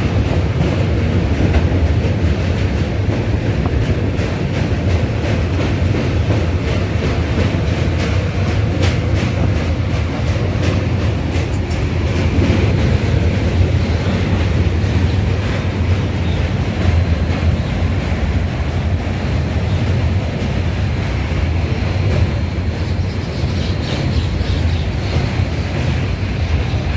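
Passenger train running on the rails: a steady rumble with wheels clacking over rail joints, the clacks thickest about a third of the way in.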